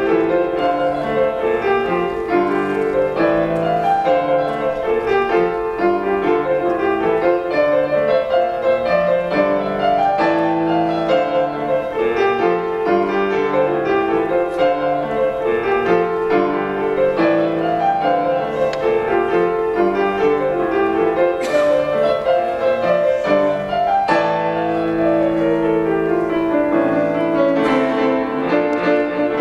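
Solo piano playing continuously, a busy stream of rapid notes over sustained chords, at an even, strong level.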